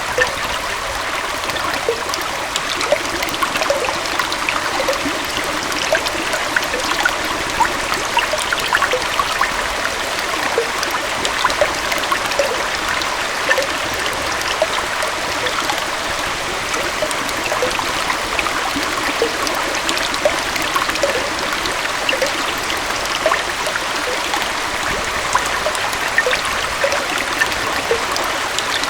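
Gentle waterfall on a forest stream, water flowing and splashing steadily, with a constant rush dotted with many small splashes and burbles.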